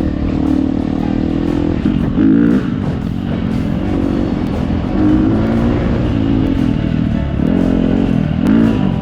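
Dirt bike engine running under way, its pitch rising and falling as the throttle is opened and eased, with background music over it.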